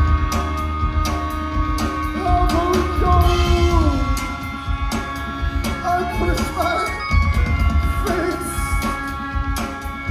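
Live rock band playing loud: busy drum kit hits under sustained instrument tones, with a singer's voice in short bending phrases.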